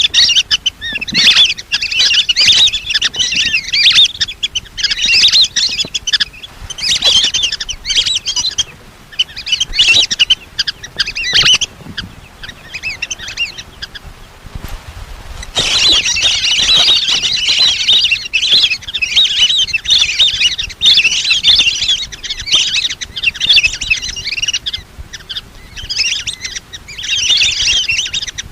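A flock of lesser whistling ducks calling, used as a hunting lure call: dense, high whistled chirps in bouts of a second or two, with a quieter lull about halfway through.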